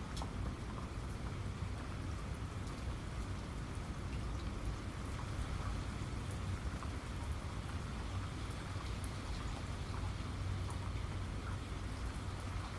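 Steady rain falling, with scattered individual drops ticking against a surface over a continuous low rumble.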